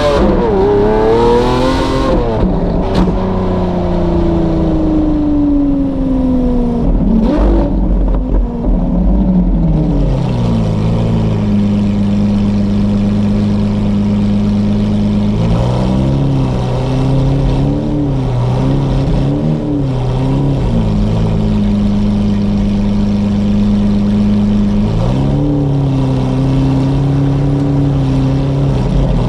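Lamborghini Aventador SVJ's V12 through a Novitec exhaust: it revs up for the first two seconds, then the note falls away as the car slows, with a brief rise around seven seconds. It then settles into a steady, deep idle with a few light throttle blips in the middle, and runs a little higher near the end.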